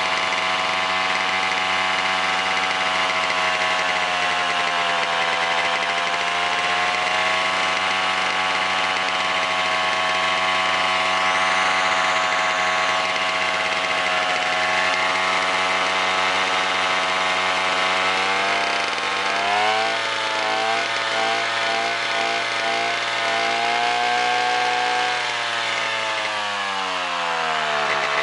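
1965 Sachs 47cc single-cylinder two-stroke stationary engine running, its speed sagging briefly about a quarter of the way in. Later it turns rough and unsteady, hunting up and down before dropping off near the end: the engine is not running properly.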